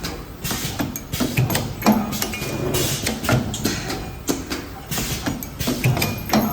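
Automatic wire ring making and butt welding machine running, with a busy run of irregular metallic clicks and knocks.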